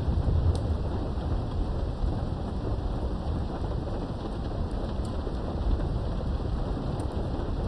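Thunderstorm heard through a window: steady rain with a low rumble of thunder underneath, a little louder at the start and then easing off, with a few faint drop ticks.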